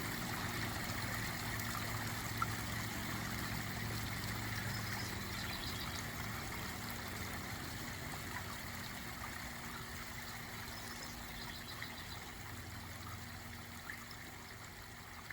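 Steady rush of running water, slowly fading out toward the end, with a few faint high chirps partway through.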